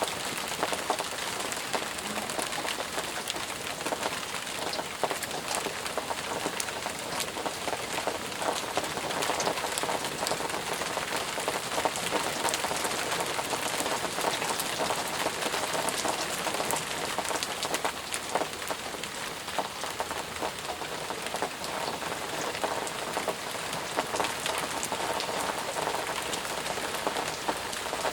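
Steady rain falling, with many individual drops pattering on surfaces close by.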